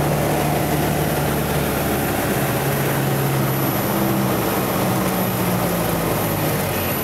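Cessna 172 floatplane's piston engine and propeller running with a steady drone, its pitch shifting about three and a half seconds in.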